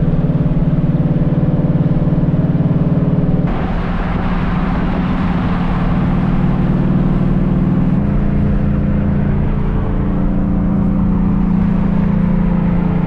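Ford Mustang V8 engine droning steadily while the car cruises, with road and wind noise. The sound changes abruptly about three and a half seconds in, where the road and wind noise grows louder.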